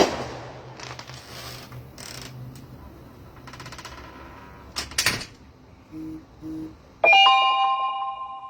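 Clicks and knocks of handling, two short low beeps, then a loud bell-like chime about seven seconds in, several clear tones ringing together and fading out.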